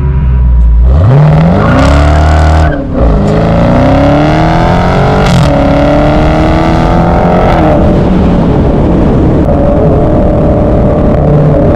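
Loud V8 car engine accelerating hard, its pitch climbing, with a brief break near three seconds as it shifts gear. It climbs again, then settles to a steady drone for the last few seconds.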